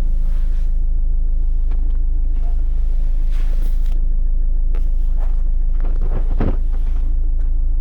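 Car engine running steadily at idle, a low even rumble, with a few brief knocks over it, the loudest a little past six seconds in.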